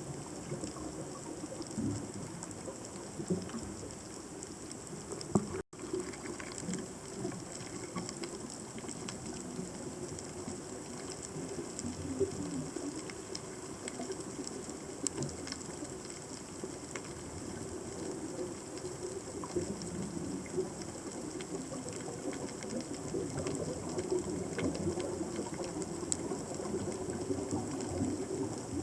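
Underwater ambience picked up by a submerged camera: a steady low rush of water with scattered small clicks and crackles. The sound cuts out completely for an instant about six seconds in.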